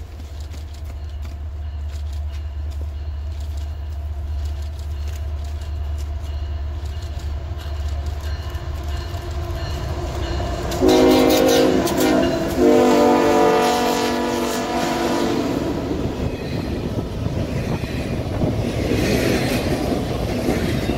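Diesel freight locomotive approaching with a low engine rumble. About eleven seconds in, its multi-note horn sounds two blasts, a short one and then a longer one. After that, the train's wheels rumble and clatter as double-stack container cars pass close by.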